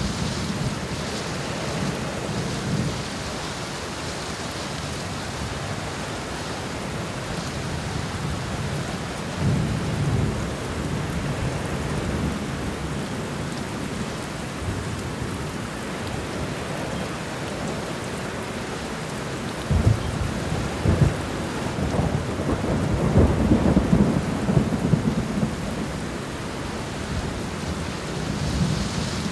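Thunderstorm: steady rain with rolling thunder rumbling several times, loudest with a series of cracks and rumbles in the second half.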